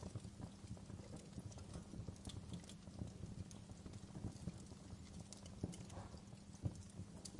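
Wood fire burning in a fireplace, crackling with irregular small snaps and pops over a low steady rumble, with a couple of louder pops late on.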